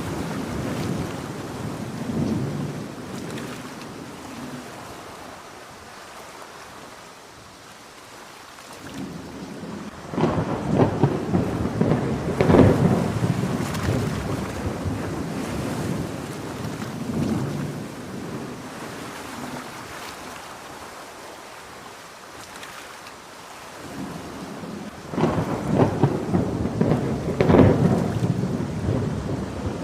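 Heavy rain falling steadily with rolling thunder: a rumble fading over the first few seconds, then two long peals with sharp cracks, one about a third of the way in and another near the end.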